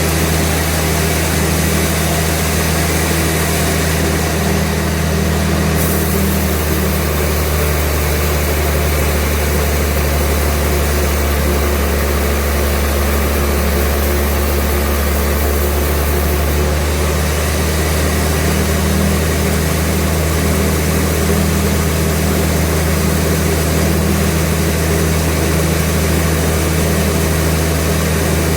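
Sawmill machinery running with a steady, loud, low engine-like drone that does not change.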